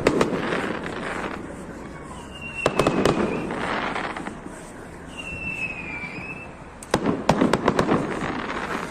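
Fireworks going off in volleys: a short whistle falling slightly in pitch, then a rapid cluster of sharp bangs trailing into a crackling hiss. This happens three times, at the start, about three seconds in and about seven seconds in.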